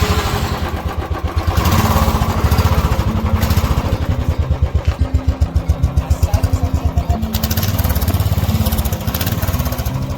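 Royal Enfield Bullet's single-cylinder engine running through its original stock exhaust, with an even pulsing beat that gets louder about a second and a half in.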